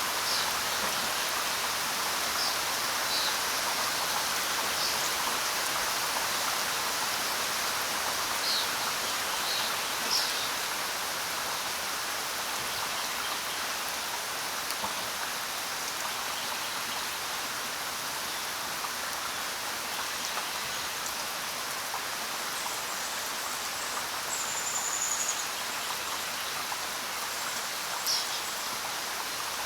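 Steady rain falling on the ground, a constant even hiss, with scattered short, high ticks standing out above it here and there.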